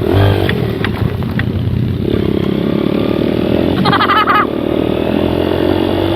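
Motorcycle engine running at a steady, moderate pace while riding, with a few light knocks about half a second to a second and a half in and a brief high-pitched sound about four seconds in.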